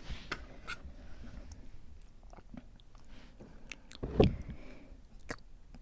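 Close-miked moist mouth sounds: scattered wet tongue clicks and lip smacks, with one louder pop a little past four seconds in.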